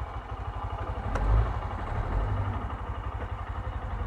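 125cc motorcycle engine idling with an even low pulse, swelling briefly about a second in.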